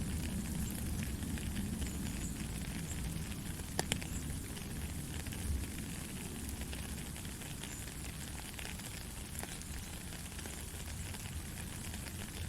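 Steady rain falling, a dense patter of drops over a low rumble. One sharper drip or tap stands out about four seconds in.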